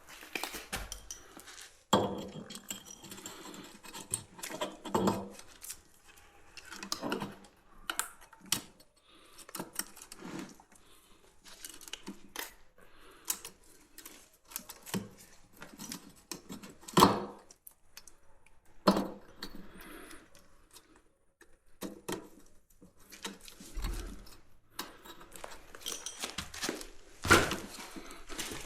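Irregular metallic clinks, taps and knocks of hand tools and small metal parts being handled while working on the Atlas Copco Cobra rock drill's engine. There are sharper knocks about two thirds of the way through and near the end.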